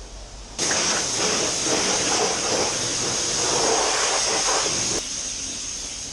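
High-pressure wash wand at a self-service car wash spraying water in a steady hiss, starting suddenly about half a second in and dropping a step quieter near the end.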